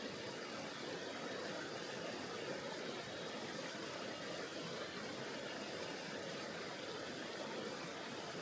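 Steady rushing of a mountain river's flowing water, an even, unbroken wash of noise.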